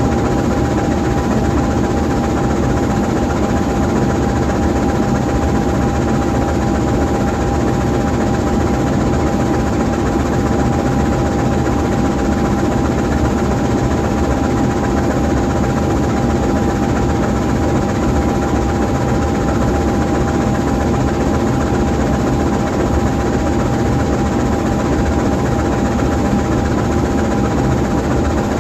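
GE U20C diesel-electric locomotive standing still with its turbocharged 12-cylinder GE 7FDL diesel idling. It makes a steady, deep drone with a thin steady whine above it.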